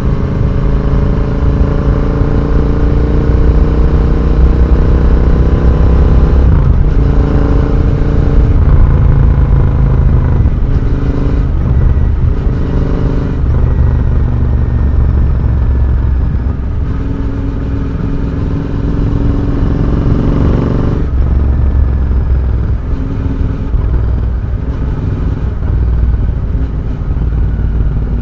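Royal Enfield Interceptor 650's parallel-twin engine running through a full-system Red Rooster aftermarket exhaust while riding. The engine note changes pitch several times as the throttle is opened and closed and the bike is shifted through the gears.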